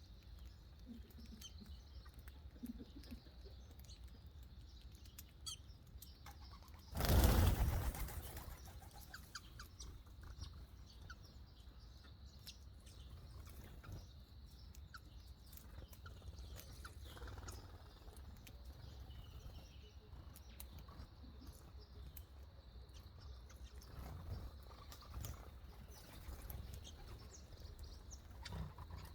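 Small birds chirping faintly and sporadically, with one burst of wing flapping about seven seconds in, lasting about a second and louder than anything else.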